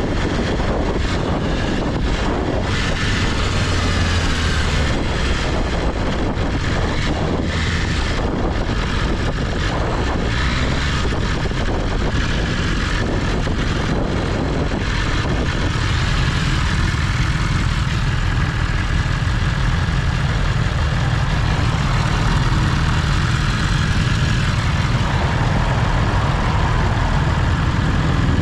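BMW S1000RR's 999 cc liquid-cooled inline-four running under way, mixed with the rush of riding wind. The engine note holds steadier and slightly louder from about halfway through.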